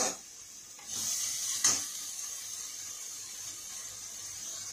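Chopped banana stem, still wet from its buttermilk soak, sizzling in hot oil in a pan. There is a steady hiss, with a sharp spatula knock at the start and another about a second and a half in.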